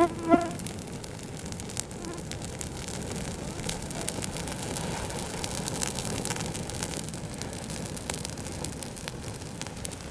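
Firewood burning in an open campfire, crackling with frequent sharp pops over a steady hiss. Right at the start a short pitched call, the loudest moment, with a fainter one about two seconds in.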